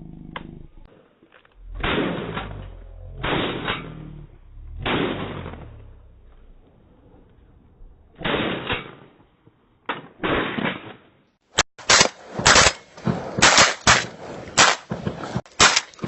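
Shotgun shots fired at birds: several loud blasts a second or two apart, each with a short echoing tail. From about twelve seconds in comes a quicker run of sharp bangs.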